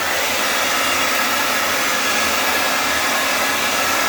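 Hair dryer running, a steady rush of air with a faint high whine.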